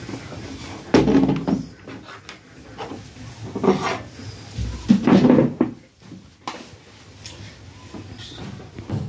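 Plastic back cover of an LED TV being worked open by hand: irregular creaks, clicks, scrapes and knocks, loudest about a second in and again around four and five seconds in.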